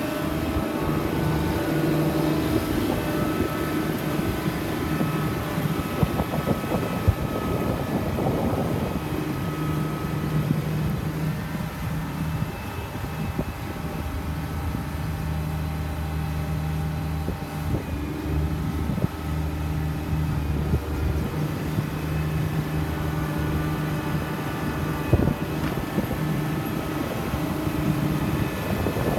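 2003 Challenger MT765 tractor's diesel engine running at a steady speed, its pitch dipping slightly a few times, with a few short knocks over it.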